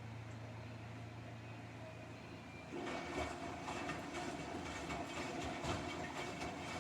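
Samsung front-loading washing machine running with a steady low hum. About three seconds in, a louder, irregular rumbling with clattering clicks starts as the drum turns the load.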